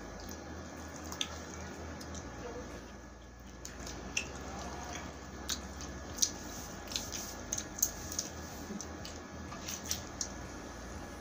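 Close-up chewing and biting of a fried chicken wing, with scattered sharp mouth clicks that come thickest between about four and ten seconds in.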